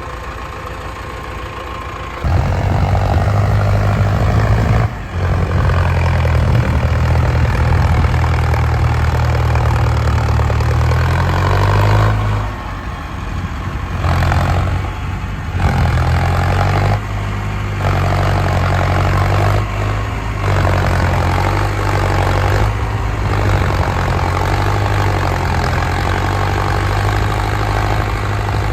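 Tractor diesel engine under heavy throttle. It picks up sharply about two seconds in, then drops back and surges again several times, each burst lasting a few seconds.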